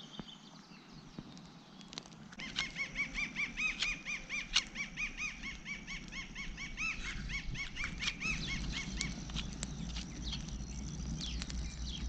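A bird calling in a long series of repeated, arched notes, about three or four a second, starting about two seconds in and stopping about nine seconds in. A few sharp clicks are scattered through it.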